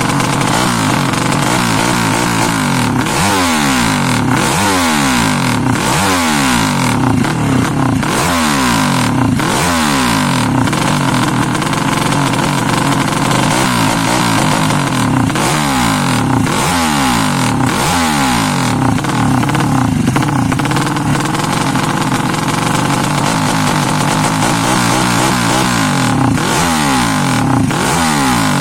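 Bored-up 200cc Yamaha Jupiter four-stroke single-cylinder engine running and being revved in repeated throttle blips, about one every one and a half to two seconds, the pitch rising and falling with each blip, as the engine is being tuned.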